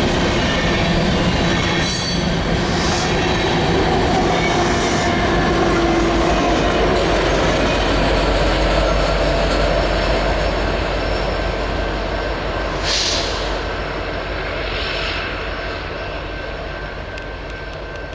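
Loaded grain train's freight cars rolling past on the rails, a steady rumble of wheels with a thin wheel squeal on top, gradually getting quieter over the second half.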